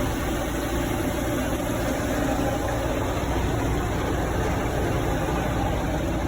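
Boat's 3.0-litre engine idling steadily, running on its first start in four years.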